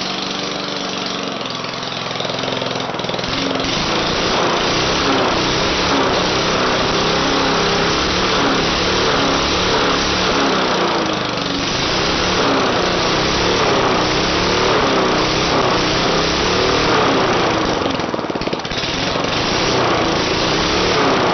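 1970s Briggs & Stratton 3.5 hp lawnmower engine running with no exhaust pipe fitted, so it has no back pressure. Its speed wavers up and down about once a second.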